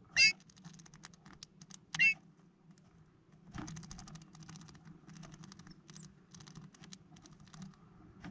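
Two short, sharp bird calls about two seconds apart, then a long run of rapid light tapping and scratching from small birds pecking seeds at a feeder made from a five-litre plastic bottle.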